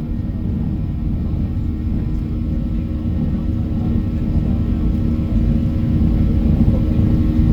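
Boeing 737-800 cabin noise from its CFM56 engines and the airflow: a steady low rumble with a constant engine hum, slowly growing a little louder.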